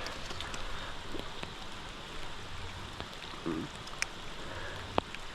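Steady rain falling, with creek water running beneath it. A couple of sharp ticks sound near the end.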